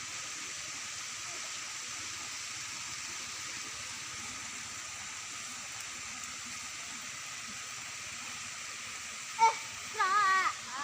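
Steady rushing of a stream with no other sound for most of the stretch. Near the end, a sharp sound and then a short, loud, wavering pitched sound break in.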